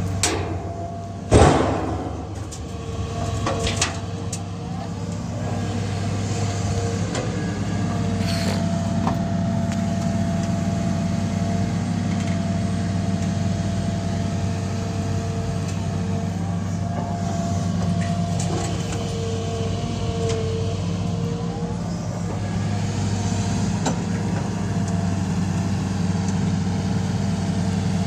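Diesel engine of a heavy earthmoving machine running steadily with a constant drone, a sharp loud knock coming about a second and a half in and a few lighter clanks later.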